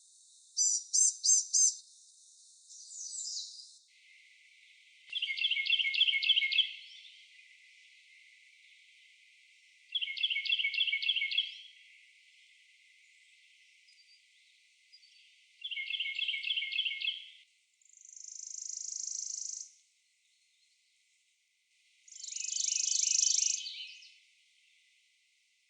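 Worm-eating warbler trills and Carolina wren songs, repeated bouts a few seconds apart, with a dry, fast high trill overlapping the wren's lower repeated phrases near the end.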